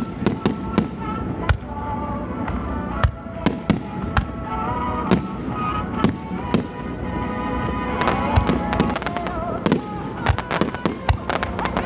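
Aerial fireworks shells bursting one after another with sharp bangs, the bursts coming thick and fast in a dense flurry near the end.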